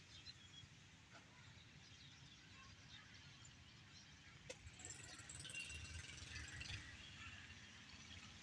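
Near silence: a faint low rumble and hiss, with a single sharp click about four and a half seconds in.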